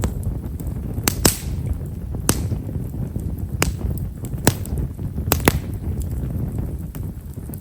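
Japanese stewartia (himeshara) firewood crackling as it burns in a bonfire: sharp pops at irregular intervals, about seven in all, two of them in quick succession past the middle, over a steady low rumble. The crackle is the fine, quiet kind this wood gives.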